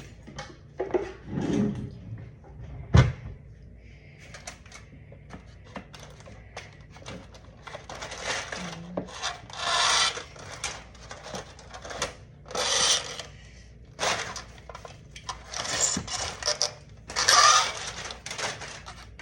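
Kitchen handling noises as a big rack of pork ribs is turned and sauced in a pan: a few knocks, the sharpest about three seconds in, then a series of short scraping, rubbing strokes.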